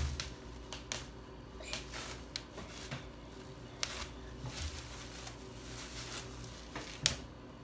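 Bubble wrap being popped by hand, with plastic crinkling: scattered single sharp pops at uneven intervals, the loudest near the end.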